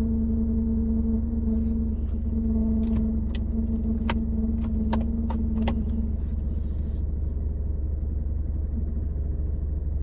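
A car running with a steady low rumble and a steady hum over it that stops about six seconds in. A handful of sharp clicks come between about three and six seconds in.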